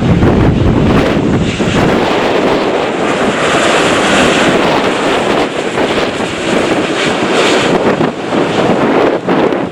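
Boeing 787-8 airliner's jet engines, a loud steady rush on arrival, with wind buffeting the microphone. A deep rumble in the first couple of seconds gives way to a brighter, hissier sound in the middle.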